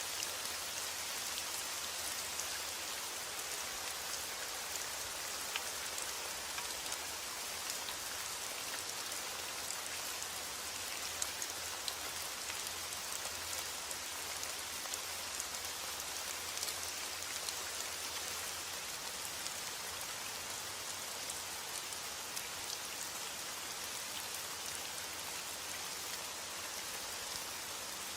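Steady rain falling on a surface, an even hiss with many small sharp drop ticks scattered through it.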